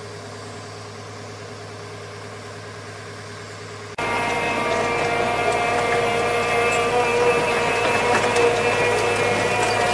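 A motor running steadily. About four seconds in, the sound cuts abruptly to a louder, steady machine drone with several held pitches.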